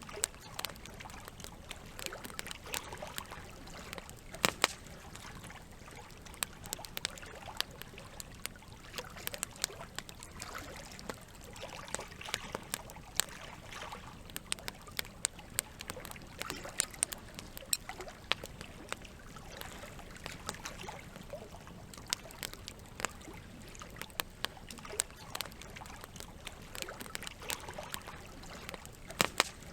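Campfire crackling with frequent irregular sharp pops over the steady trickle of flowing water.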